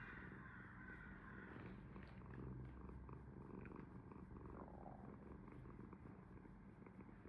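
Domestic cat purring quietly and steadily.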